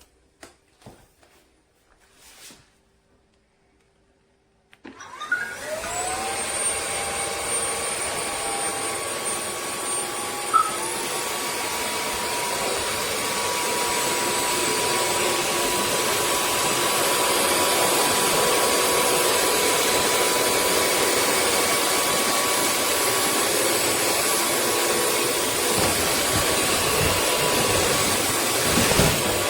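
A few faint clicks, then about five seconds in a wet-dry floor vacuum's motor switches on. Its whine rises in pitch over about a second as it spins up, and it then runs steadily with a loud rushing suction noise.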